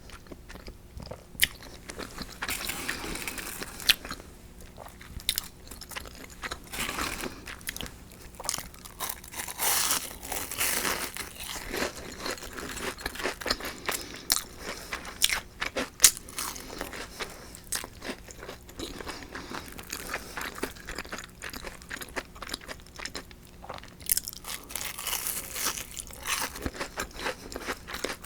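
Close-miked eating: crunchy bites into deep-fried food, shrimp tempura or a panko croquette, and chewing, as irregular crisp cracks and wet mouth sounds.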